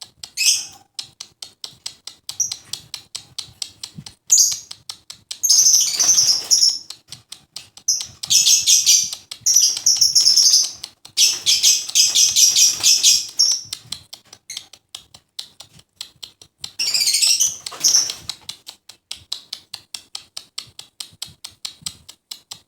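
Lovebird calling: a fast, even run of sharp ticks, several a second, broken by loud, shrill, high chattering bursts, the longest stretch near the middle.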